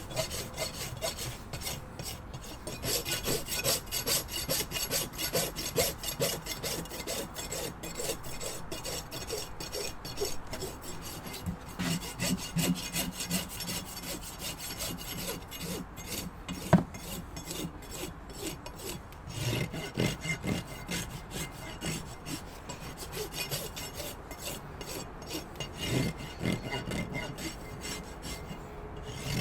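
Farrier's hoof rasp scraping across a horse's hoof in quick repeated strokes, with one sharp tap about two-thirds of the way through.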